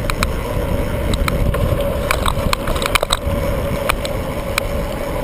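Riding noise from a bicycle: a steady low rumble of wind and tyres, with irregular sharp clicks and rattles from the bike, bunched together about two to three seconds in.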